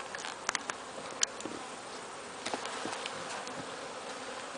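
A colony of honey bees humming steadily around an open hive, with a few sharp clicks about half a second to a second in and again around two and a half seconds in.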